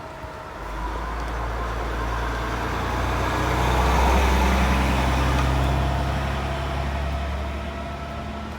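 A large motor vehicle's engine driving past, its low hum growing louder to a peak about four seconds in and then fading away.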